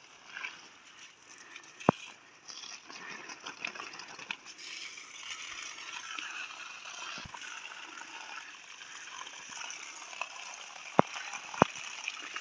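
Steady rush of running water, with three sharp clicks: one about two seconds in and two close together near the end.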